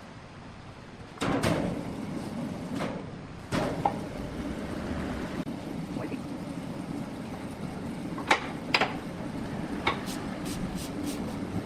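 Sawmill machinery running with a low rumble that starts about a second in, with a few sharp knocks of wood or metal around eight to ten seconds in.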